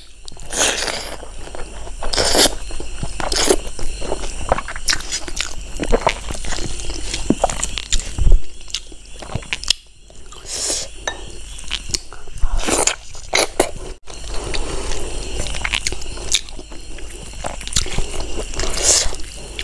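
A person chewing and biting into rice and curried pork ribs, close to a clip-on microphone, with irregular sharp clicks and crunches throughout.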